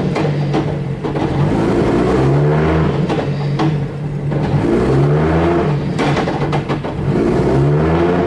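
Nissan Silvia's swapped-in RB-series straight-six running in gear during a first test of the rebuilt gearbox, revving up and dropping back about three times. A few sharp clicks sound between the revs.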